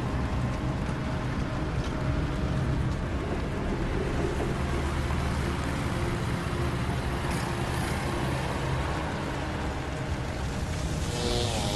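A forest fire burning with a steady low rumble and crackle, under faint held music tones; a gliding musical sound comes in near the end.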